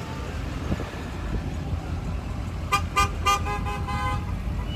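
Car horns honking over the steady rumble of passing traffic: three quick toots about two and a half seconds in, then a longer held honk.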